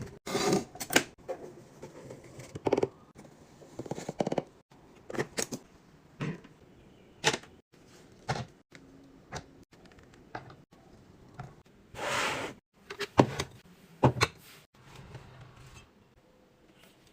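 Irregular taps, clicks and knocks of containers and packaging being handled and set down while a fridge is restocked, with a longer rustle of packaging about twelve seconds in.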